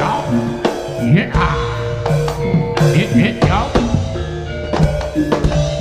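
Live jaranan gamelan accompaniment: drums struck in a steady beat over ringing metal mallet percussion.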